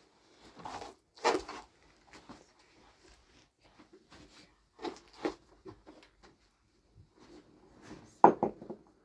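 Several short knocks and bumps of objects being handled, in a few clusters, the loudest near the end.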